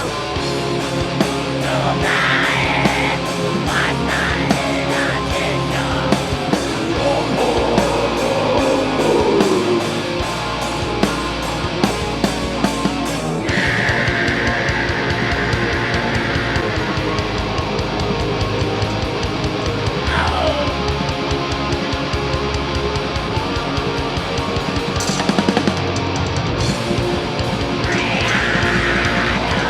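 Live heavy metal band playing loud and without a break: distorted electric guitars, bass and a drum kit.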